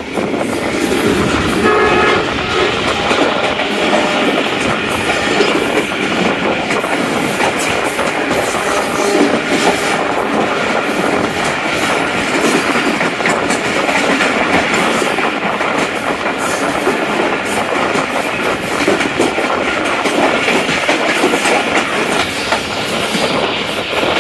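Passenger train running at speed: steady loud rolling noise with wheels clattering over the rail joints.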